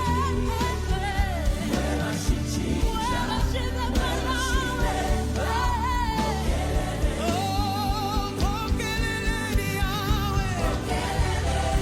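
Gospel worship song: singers' voices with vibrato over a band with bass and a steady drum beat.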